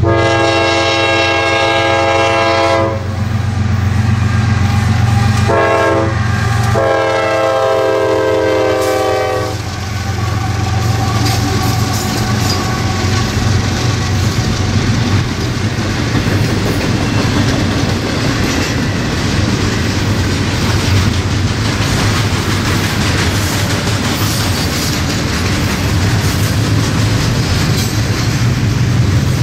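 CSX diesel freight locomotives blowing a multi-chime air horn: a long blast, a short one and another long one, the closing part of the grade-crossing signal. Then the train of double-stack container cars rolls past with a steady rumble and rhythmic wheel clicks over the rail joints.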